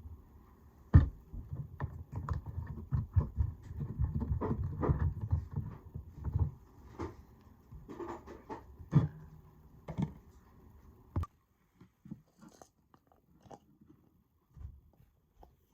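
Close handling noise of a small plastic LED light being worked on by hand: a sharp knock, then rubbing and many small plastic clicks and taps for several seconds, with a few separate sharp clicks later.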